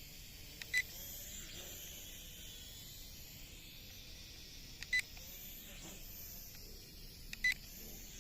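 Toy quadcopter's remote controller giving three short high beeps, a few seconds apart, each just after a small click of a button press. Underneath is the faint high whine of the drone's small motors, wavering in pitch.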